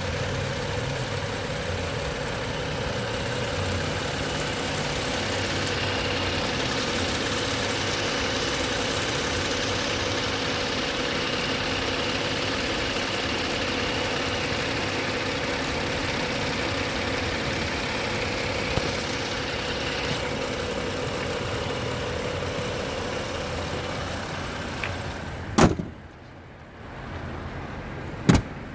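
BMW TwinPower Turbo engine idling steadily under the open hood. Near the end come two sharp thumps about three seconds apart, the hood being shut. After the first thump the engine sound is suddenly much quieter and muffled.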